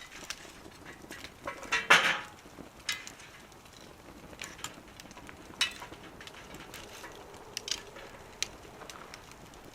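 Wood fire crackling in a small metal wood stove: scattered sharp pops at irregular intervals, the loudest about two seconds in.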